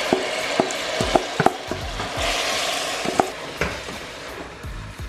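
Raw rice frying in hot oil in a pot, sizzling while a spoon stirs it, with repeated scraping and knocking of the spoon against the pot. The sizzle dies down about three seconds in, leaving fainter stirring clicks.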